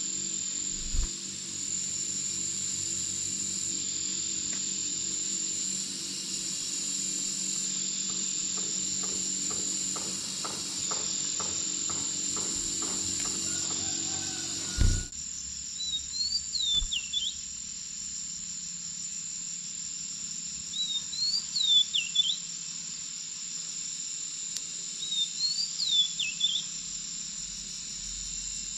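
A steady high-pitched insect drone, like crickets, runs throughout. In the second half a small songbird gives three short phrases of quick swooping notes, a few seconds apart.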